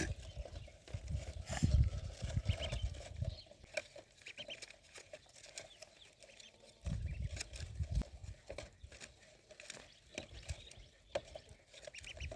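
Ducklings peeping faintly amid scattered small taps and clicks, with low rumbling in the first couple of seconds and again about seven seconds in.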